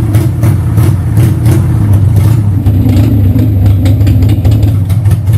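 Motorcycle engine running steadily at idle, a loud, even low note.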